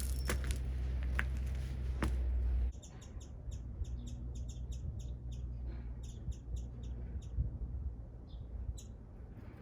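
A low rumble with a few clicks that cuts off suddenly under three seconds in, then small wild birds chirping: short high calls in a quick series, about three a second, thinning out near the end.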